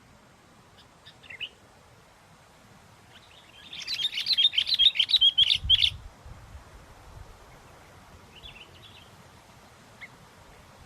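Sooty-headed bulbul calling: a few short chirps, then about two seconds of loud, rapid chattering song, then a few more scattered chirps.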